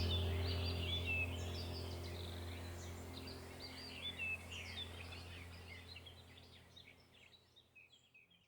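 Small aviary birds chirping and twittering rapidly over a steady low hum, the whole sound fading out to silence near the end.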